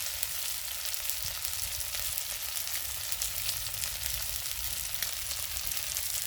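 Steady dense sizzling and crackling of food grilling over a wood fire on a Picogrill.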